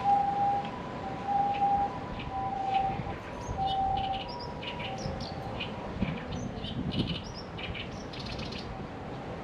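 Japanese ambulance siren sounding its two-tone "pee-poh", a higher and a lower note taking turns about every half second, then fading out about halfway through. Small birds chirp over it in the second half.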